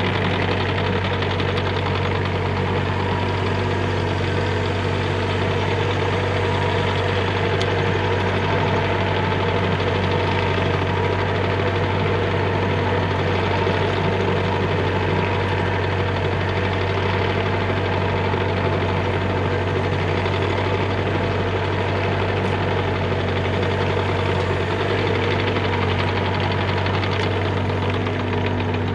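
Diesel engine of a Bobcat E35 mini excavator running steadily with a deep, even hum.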